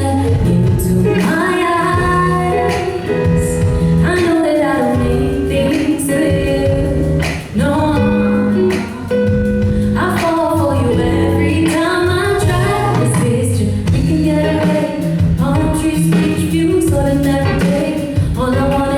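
A song performed live: a woman singing a melody over instrumental backing, with held and gliding sung notes.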